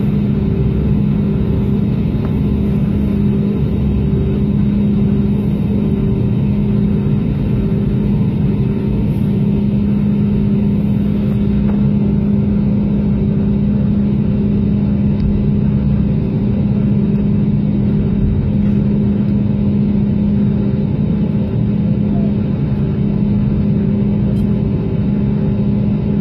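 Airplane engine and airflow noise heard inside the cabin during takeoff. It is steady and loud, with a constant low hum.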